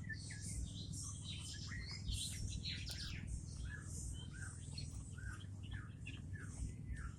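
Nias hill myna (Gracula robusta) calling: a run of chirps and whistles, with harsher high notes in the first half and short whistled notes repeated a few times a second in the second half.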